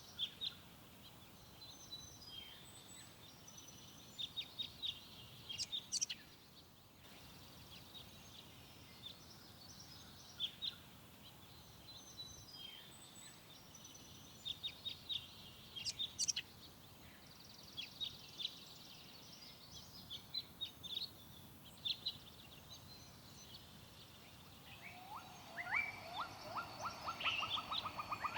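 Forest birds singing: scattered short, high chirps and quick phrases from several birds over a faint steady hiss. About 25 seconds in, a lower, fast trill of evenly repeated notes starts and grows louder.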